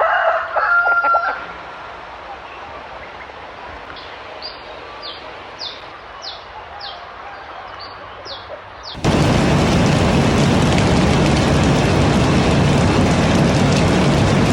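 The tail of a rooster's crow, then a string of short, high chirps over a quiet background. About nine seconds in, it cuts suddenly to loud, steady rain.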